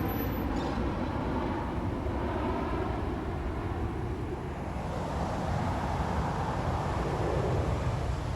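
Jet airliner on approach, a steady engine rumble and roar with faint tones that drift slightly in pitch over the first few seconds.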